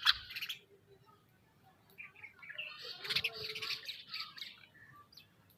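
Birds calling: a sharp squawk right at the start, then after a short lull a busy spell of overlapping chirps and squawks in the middle.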